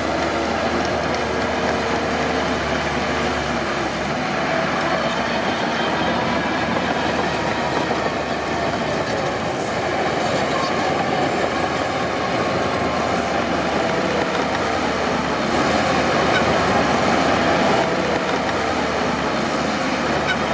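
Crawler bulldozer working, its diesel engine running steadily under load with a continuous clatter from the steel tracks.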